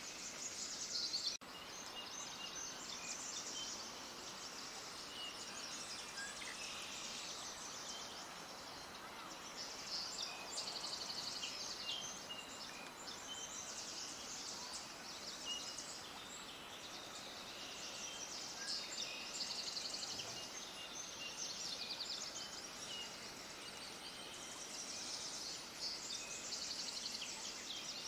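Many small birds chirping and twittering at once, a dense chorus of short high chirps that overlap continuously, with a brief break about a second in.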